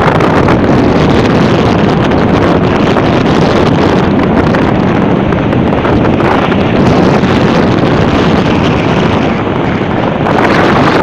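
Strong storm wind blowing across the microphone: a loud, continuous rushing buffet that eases a little about nine seconds in.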